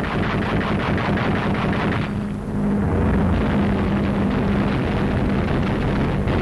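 Rapid aircraft machine-gun fire over the steady drone of piston aircraft engines. The firing eases off about two seconds in, leaving the engine drone with fainter bursts.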